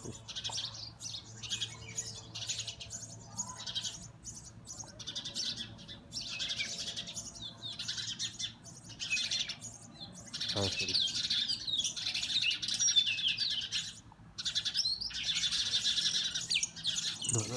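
Small garden birds chirping in quick repeated notes, in clusters that grow busier in the second half.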